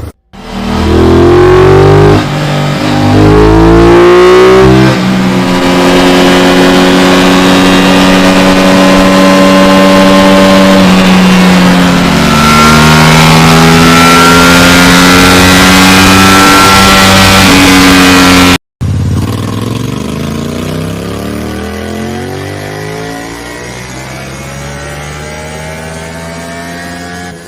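Parallel-twin sport motorcycle with an aftermarket exhaust, revving hard and accelerating, its pitch climbing and dropping back at several gear changes. About two-thirds of the way in it cuts off suddenly and a second, quieter twin-cylinder bike exhaust takes over, its pitch falling and then rising again.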